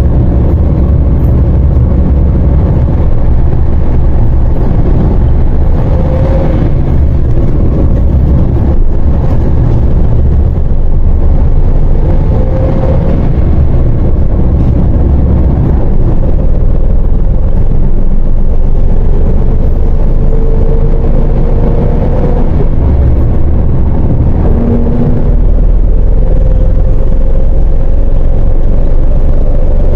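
MAZ 104.021 city bus under way, heard from inside: a steady low engine and road rumble, with faint whining tones that glide up and down as its speed changes.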